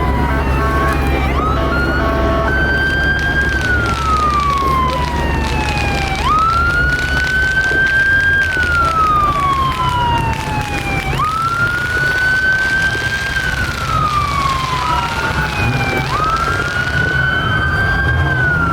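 Police car siren wailing: each cycle jumps up quickly and then falls slowly, repeating about every five seconds, with a second siren overlapping near the end. A steady low rumble runs underneath.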